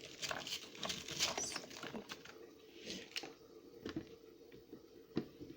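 Light, scattered clicks and rustles of a silicone steamer pot of frozen vegetables being handled and set up.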